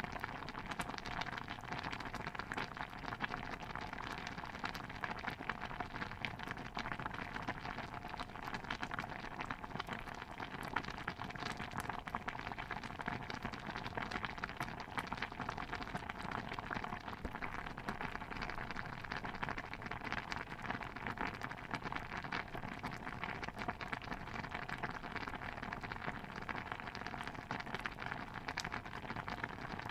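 Steady, dense pattering with many fine crackles throughout, from a layered kitchen ambience soundscape of the kind made for bubbling pots and water sounds.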